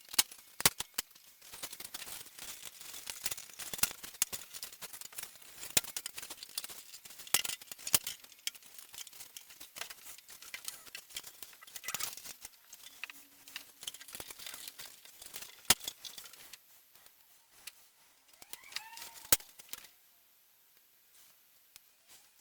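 Irregular clicks, taps and scraping of wooden model-aircraft parts and tools being handled on a workbench, dying down near the end.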